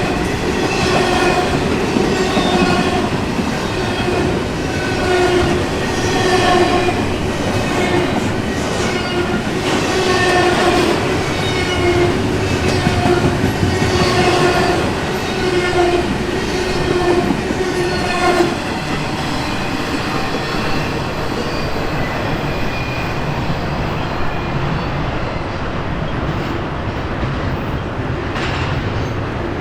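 A long intermodal container train rolling past, with steady wheel clatter and rumble. Over it, a ringing tone pulses a bit faster than once a second and stops suddenly about two-thirds of the way through.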